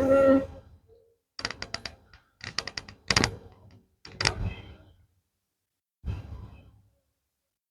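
Clicks and knocks of a metal hive tool against wooden beehive frames while comb is scraped off, coming in short quick runs of taps with pauses between them.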